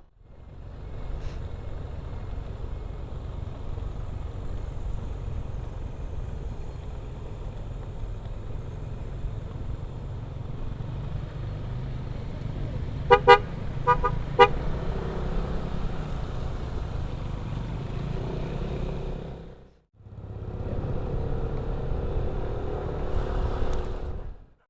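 Steady low rumble of a motorcycle ride, engine and road noise, with a few short horn beeps about halfway through. The sound cuts out briefly a few seconds before the end.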